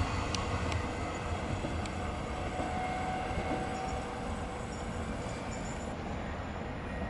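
A train running on the rails, its rumble slowly fading, with a few sharp clicks in the first two seconds.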